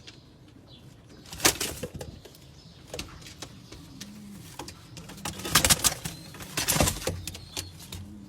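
Domestic pigeons cooing in low, arching notes, with several loud, sharp rustling bursts about a second and a half in and again twice near two-thirds of the way through.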